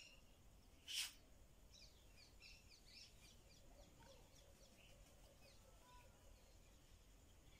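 Faint chirping of small birds in a run of quick, short, high notes, with one short hiss about a second in.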